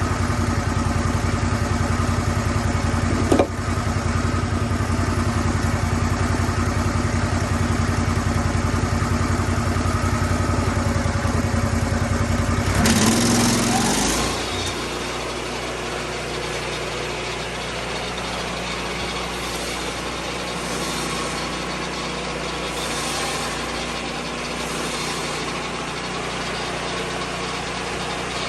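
Lucas Mill 10-30 sawmill engine running steadily, with a sharp click a few seconds in. About halfway through there is a brief burst of hiss, and the engine settles to a quieter, lower running.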